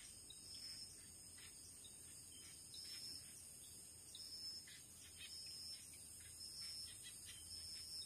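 Faint chorus of forest insects: a steady high drone, a higher call pulsing about once a second, and scattered short chirps.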